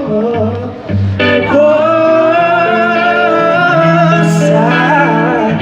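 Live band music: a singer holds one long wavering note over guitar and bass.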